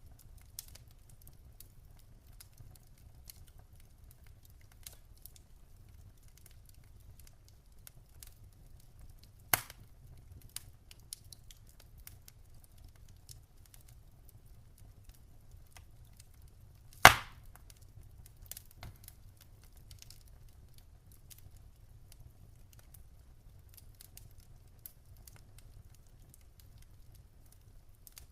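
Wood fire crackling in a fireplace: scattered light ticks and snaps over a low steady rumble, with a sharp pop about a third of the way in and a louder one a little past halfway.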